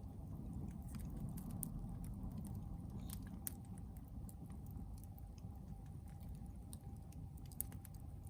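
Log bonfire crackling: irregular sharp pops and snaps from the burning wood over a low, steady rush of the flames.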